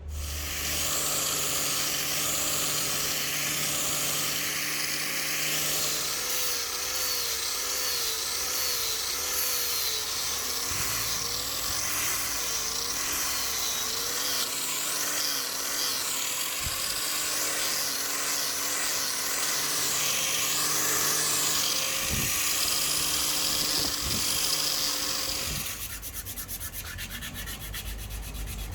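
Small electric power tool running against wood with a steady whine and a hiss of abrasion. Its pitch wavers as the load on it changes, and it gets a little quieter near the end.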